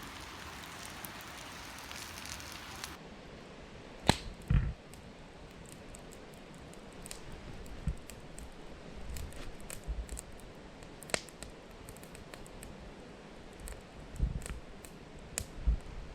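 Wood campfire crackling, with irregular sharp pops and snaps and a few dull thumps. It follows a steady hiss that cuts off abruptly about three seconds in.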